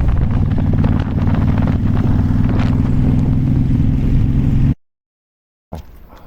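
Honda VTX 1300's V-twin engine running steadily on the move, with wind noise on the microphone. It cuts off suddenly near the end, followed by a second of silence and then faint background sound.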